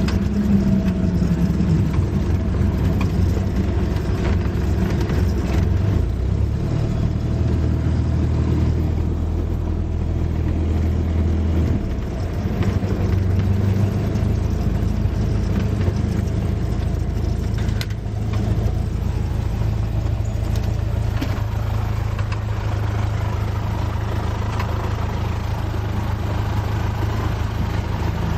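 Cessna 172S's four-cylinder Lycoming IO-360 engine and propeller running with a steady drone, its note shifting a few times as power changes, around 6, 12 and 18 seconds in.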